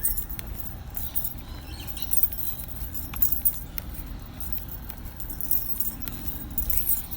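Irregular light metallic jingling and rattling, like keys carried on the body while walking, over a steady low rumble on the microphone.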